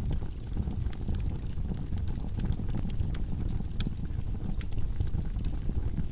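Wood logs burning in a fireplace: a steady low rumble of flames with frequent irregular crackles and sharp pops.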